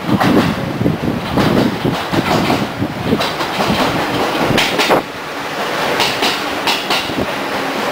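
JR Central 211 series electric train pulling into the platform and running past close by. Its wheels clack in quick pairs as each bogie crosses the rail joints, over a steady running rumble.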